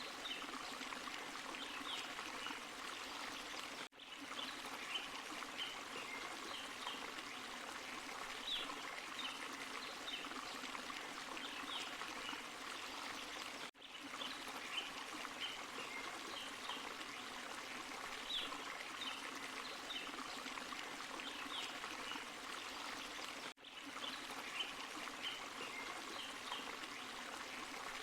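Forest stream and small waterfall, water running and splashing steadily over rocks, with frequent short high splashes on top. The sound dips briefly three times, about ten seconds apart.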